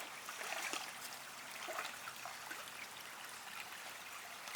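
Water trickling and babbling steadily, like a small stream running over rocks.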